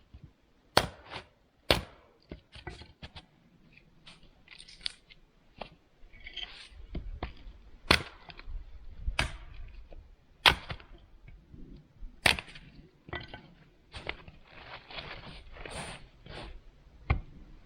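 Firewood being split and broken for a campfire: a series of sharp wood cracks at irregular intervals, with rustling and handling of wood between them.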